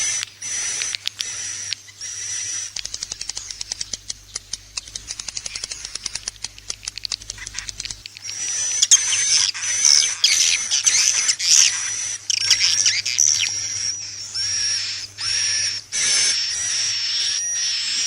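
Swiftlet calling-sound recording, the lure track played to draw swiftlets into nesting houses: repeated short high chirps with brief gaps, a stretch of rapid clicking from about 3 to 8 seconds, then dense overlapping twittering.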